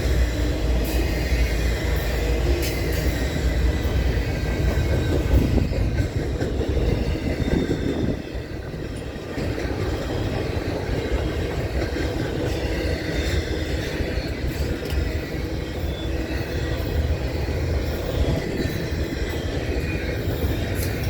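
CSX intermodal freight train rolling past, a steady rumble and clatter of wheels on rail. The loudness dips briefly about eight seconds in.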